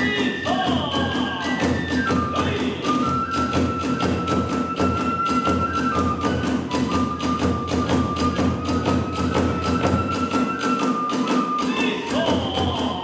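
Kagura accompaniment at a fast tempo: a bamboo flute holds a long stepping melody over rapid, even drum strokes and the clash of small hand cymbals.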